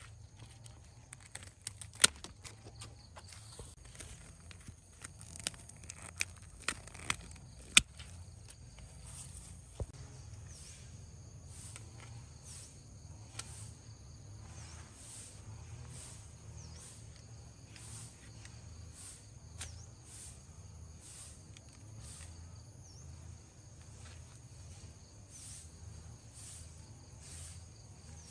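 Insects chirping outdoors in a steady, high-pitched pulse about once a second. Several sharp clicks or snaps sound in the first eight seconds, the loudest about two seconds in and near eight seconds.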